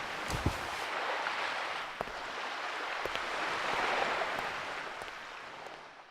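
Ocean surf washing steadily, fading out near the end.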